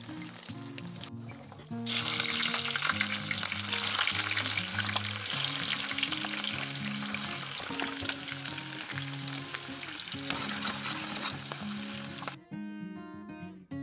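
Food sizzling as it fries in a pan, starting suddenly about two seconds in and cutting off near the end, over soft background music.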